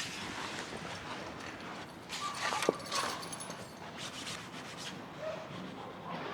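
A canvas boat canopy being handled and taken down: irregular rustling and rubbing of the fabric, with one sharp click about two and a half seconds in.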